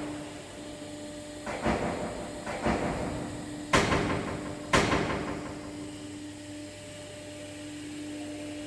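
A steady low drone note, with a few rushing swells and two sharp hits about a second apart.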